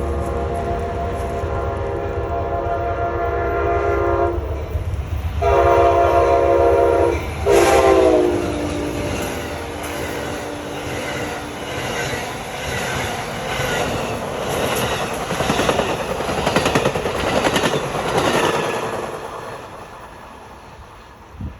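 An Amtrak train's Siemens ALC-42 diesel locomotive sounds its multi-note air horn as it approaches with a low engine rumble: two long blasts, then a short one that drops in pitch as the locomotive passes. The passenger cars follow with a steady rhythmic clickety-clack of wheels over rail joints, which fades away near the end.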